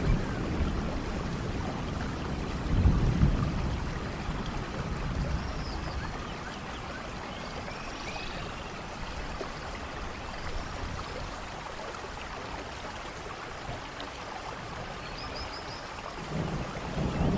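Steady heavy rain with low thunder rumbling, one rumble swelling about three seconds in and another building near the end.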